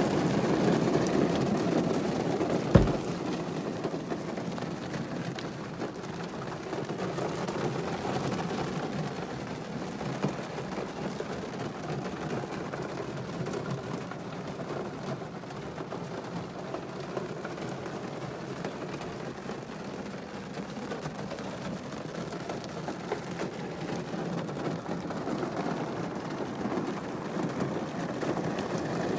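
Rain falling on a car's roof and windshield, heard from inside the cabin as a steady wash of noise, with one sharp knock about three seconds in.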